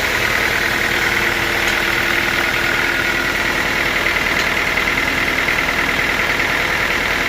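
Sawmill machinery running steadily, an even mechanical drone with a high whine over it and no change in load.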